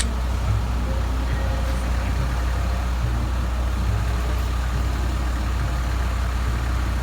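Fire truck engine idling: a steady, unbroken low rumble.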